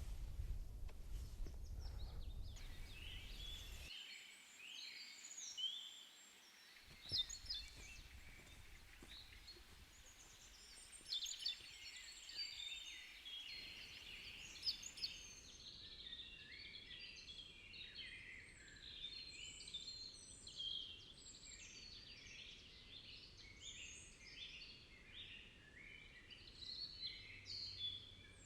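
Several songbirds singing together, a busy run of short chirps and trills. There is a low rumble for the first few seconds and a few brief knocks.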